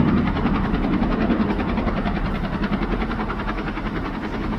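Firefighting helicopter's rotor chopping steadily with a fast, even beat and engine running under it.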